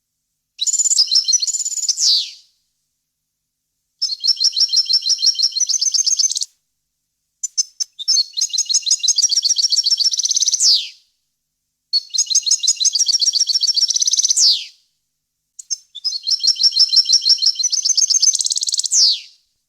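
European goldfinch singing: five phrases of fast, twittering repeated high notes, each about two to three seconds long with brief silent gaps between, several ending in a quick falling sweep.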